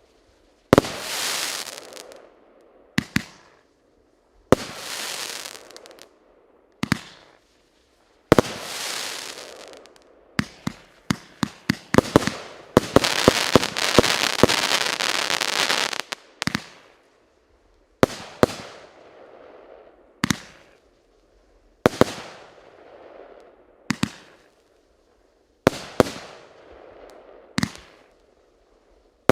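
Varyag 88-shot, 1-inch firework cake firing. Sharp reports come every two seconds or so, each followed by a fading crackle. About 10 to 13 seconds in there is a rapid run of reports, then a loud, dense crackle until about 16 seconds in.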